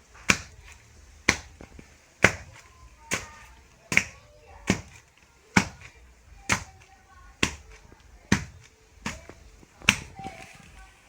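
Earth being pounded down to pack a dirt floor level: steady, heavy thuds about once a second, a dozen in all.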